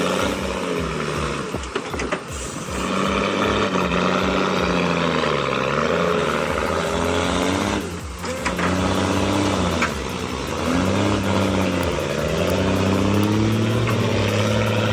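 Truck engine revving up and easing off over and over, its pitch dropping and climbing again several times.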